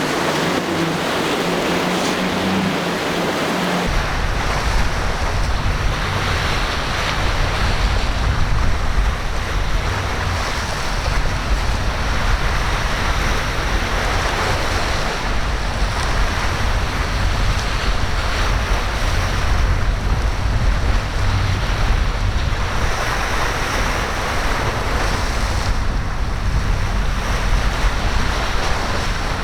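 Ocean surf rushing and breaking in repeated swells at an inlet, with wind rumbling on the microphone. During the first few seconds, before a cut, a low steady hum sits under the water noise.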